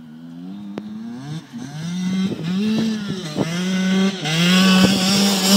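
A 125cc pit bike's small engine revving hard and coming closer, growing steadily louder. Its pitch climbs, dips back and climbs again several times.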